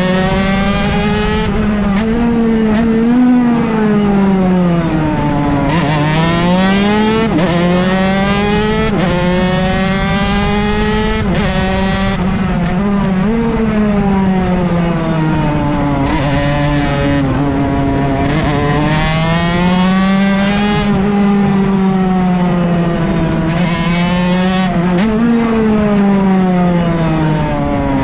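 Honda MB100 single-cylinder two-stroke racing engine with a homemade exhaust pipe, running hard: the pitch climbs under acceleration and drops sharply at each upshift, with longer downward sweeps when slowing for corners, over wind noise.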